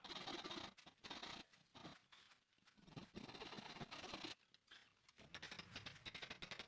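A hand tool scraping across wood in three scratchy strokes, each a little over a second long with short pauses between them.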